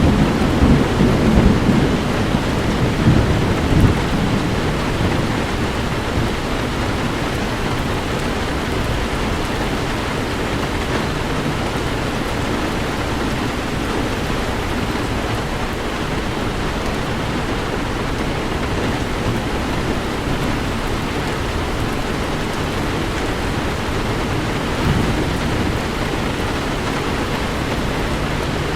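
Heavy rain falling steadily, with thunder rumbling through the first four seconds or so.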